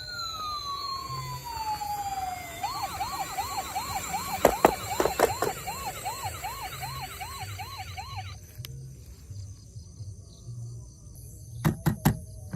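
Electronic toy emergency-vehicle siren: one falling whine lasting about two and a half seconds, then a fast up-and-down warble about twice a second that cuts off suddenly after about six seconds. A few sharp clicks come midway and again near the end.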